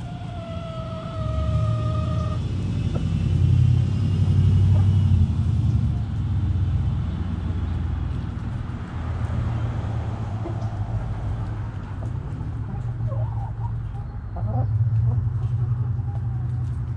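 A rooster crowing, ending on a long held note that falls slightly over the first two seconds, over a steady low rumble that is the loudest sound throughout. A few short hen clucks come later.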